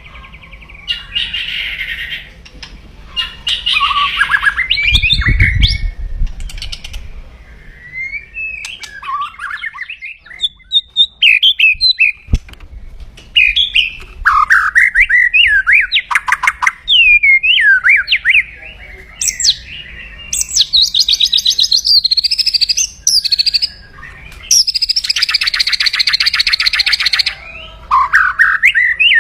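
White-rumped shama (murai batu) singing aggressively: loud sweeping whistled phrases broken by harsh, very fast rattles, the 'kretekan' call, with two long rattling stretches in the second half. A low thump comes about five seconds in.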